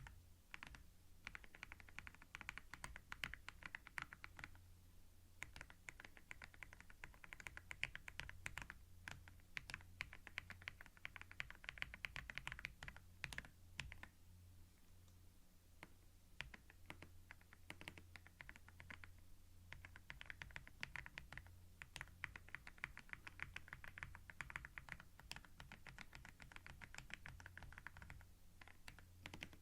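Computer keyboard typing, recorded close up on binaural microphones: quick runs of clicking keystrokes in bursts with short pauses between them, over a faint steady low hum.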